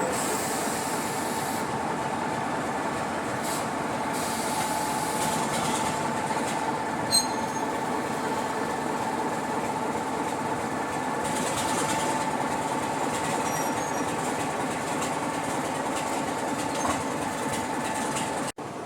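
Diesel train running at a steady speed: an even rumble of wheels on rail with a steady whine, and a sharp click about seven seconds in. The sound drops out briefly just before the end.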